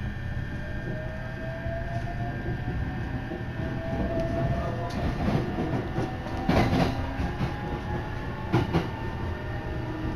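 Electric local train pulling away and picking up speed, heard from inside the carriage: a low running rumble with a faint motor whine rising slowly in pitch, and the wheels clattering over rail joints a few times about halfway through and again near the end.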